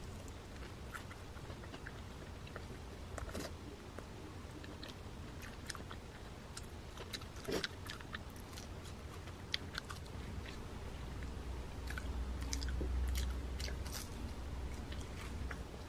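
Close-up crunchy biting and chewing of fried food, with scattered crackles from the crisp coating. A low rumble swells and fades about three-quarters of the way through.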